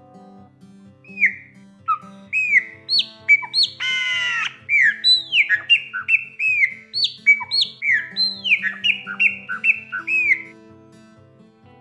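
Chopi blackbird (graúna) singing a rapid series of loud, clear, down-slurred whistles, with one harsh rasping note about four seconds in. The song starts about a second in and stops near the end, over soft guitar music.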